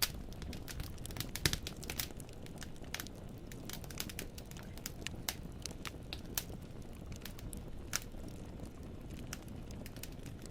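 Wood fire burning in a fireplace: logs crackling and popping in irregular sharp clicks over a low steady rumble of the flames, with a few louder pops, one about a second and a half in and another near eight seconds.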